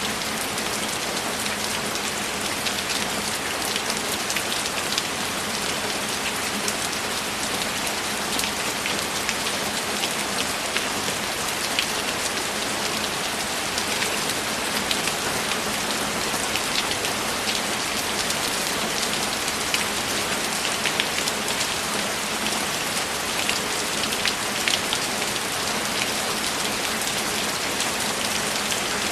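Steady rain falling, with many fine drop patters on a surface over an even hiss; no thunder.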